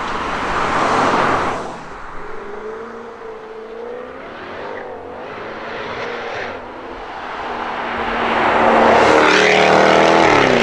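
Jaguar F-Type Project 7's supercharged V8 being driven briskly on a winding road, its pitch rising and falling with the revs. It is loudest in the last couple of seconds as the car passes close, then its pitch drops away at the very end.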